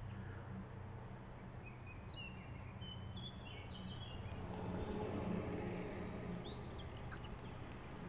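Several small songbirds chirping and singing in short high calls and trills. A steady low hum runs underneath.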